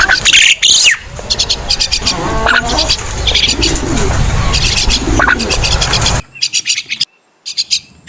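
Crested myna calling: repeated runs of rapid, high chattering notes mixed with lower warbled whistles. The background hiss drops out about six seconds in, followed by a brief gap before the chatter starts again.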